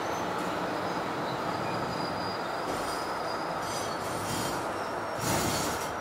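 Fukui Railway type 200 articulated railcar running, heard from inside the car: a steady rolling noise, with thin high wheel squeal from about two seconds in and a short, louder rush of noise near the end.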